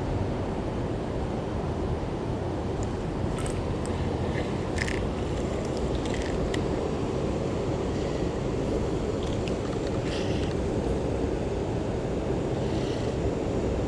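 Steady low rumbling background noise with no speech, and a few faint short sounds scattered through it.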